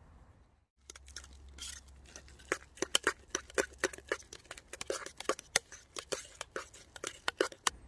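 A utensil clicking and tapping irregularly, several times a second, while mashed potato is mixed with flour into dough.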